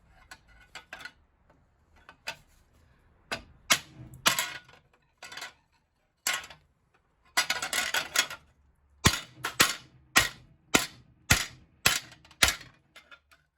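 Hand tools working on scrap boiler metal: scattered sharp knocks and a stretch of scraping, then seven sharp metal strikes in a steady rhythm about half a second apart. This is the work of freeing cut copper pipe stubs from a boiler fitting.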